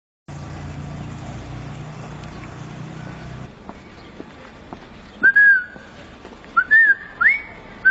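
A low steady hum for the first three and a half seconds, then a series of short whistles, each sliding quickly up and holding a clear note; these whistles are the loudest sounds.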